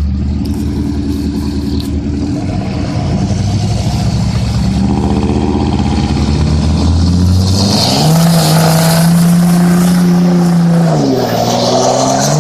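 Pickup truck engines under load in a truck pull, running low and steady, then revving up sharply about seven and a half seconds in and holding high. The revs dip briefly near the end before climbing again.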